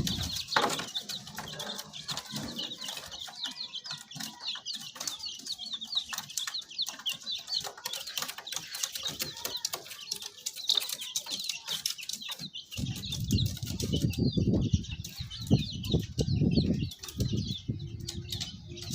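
A brood of baby chicks peeping continuously, many short high cheeps overlapping. From about two-thirds of the way in, bursts of low rustling and bumping come and go under the peeping.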